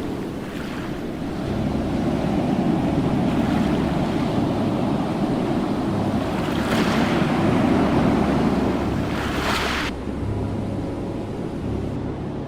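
Ocean waves breaking and washing on the shore, a steady rushing surf. Two louder hissing surges come through, the second cutting off suddenly about ten seconds in.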